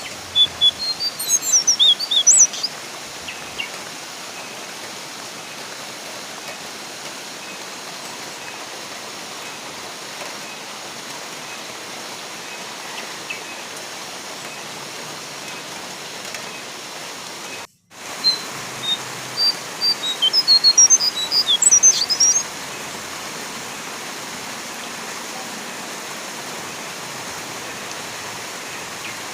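Brown jongkangan bird calling in a rapid run of loud, high chirps, once near the start and again about two-thirds of the way through, over a steady hiss of rain. The sound breaks off for an instant just before the second run of calls.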